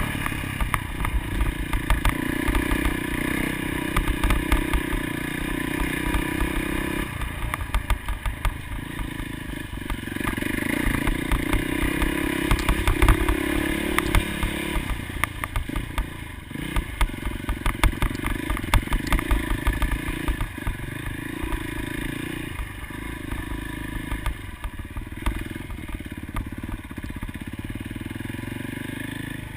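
Motocross motorcycle engines running and revving, the engine note climbing and then dropping off again several times, with scattered sharp clattering knocks.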